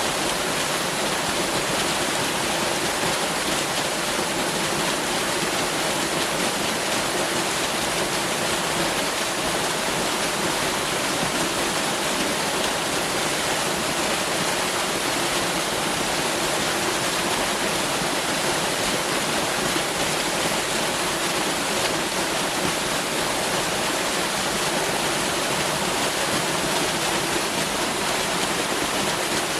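Waterfall: water pouring down in a steady, unbroken rush of noise.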